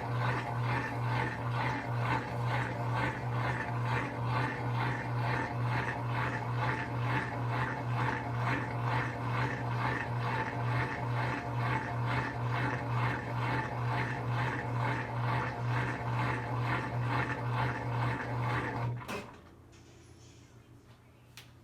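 Brastemp BWK17 17 kg washing machine running on its quick cycle: a steady low motor hum with a rapid pulsing, about three beats a second. It cuts off suddenly near the end, and a short click follows.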